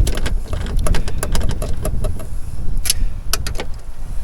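Light clicks and small metallic rattles of hand work inside a car door while a replacement door check is fitted, over a steady low rumble.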